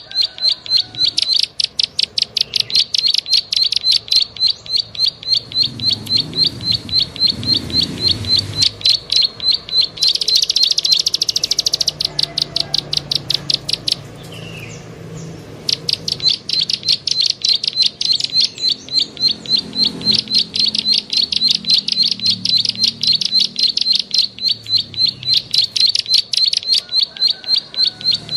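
A bird giving a fast, even series of sharp clicking call notes, about seven a second. The notes break off for a couple of seconds around the middle and then resume.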